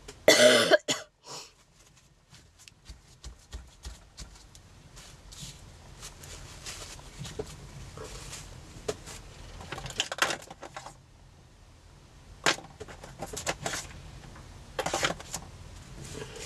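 A person coughing once, loud and short, about half a second in, from a head cold. Then light scattered taps and rustles of craft materials being handled.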